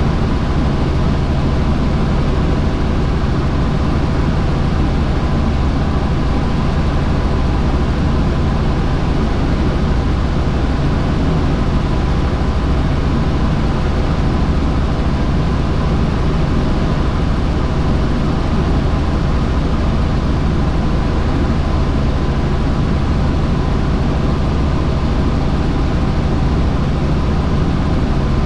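Helicopter in flight: steady engine and rotor noise with a low hum, unchanging throughout.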